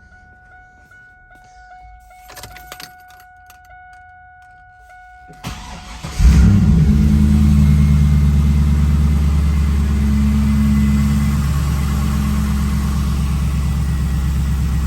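Cold start of a 2002 Pontiac Trans Am WS6's 5.7-litre LS1 V8. Faint key clicks come first. About five and a half seconds in the starter cranks briefly, then the engine catches with a loud flare and settles into a steady cold idle.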